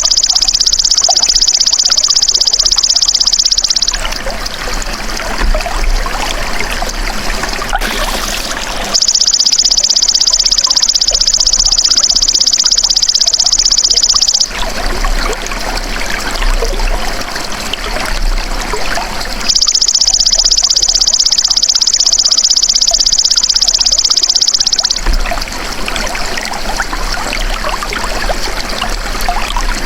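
Belalang emas insect calling: a loud, high, buzzing trill that lasts about five seconds and repeats about every ten seconds, three times in all, with the third call starting at the very end. Steadily trickling running water continues underneath and between the calls.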